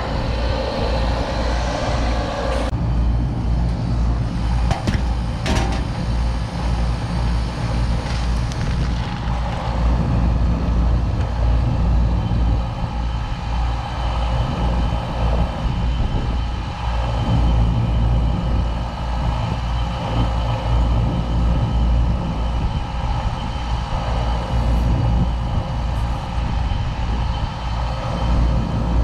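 Packaged air-conditioning unit running steadily, with the compressor's low hum and the newly replaced condenser fan moving air. There are a few brief knocks early on and near the end.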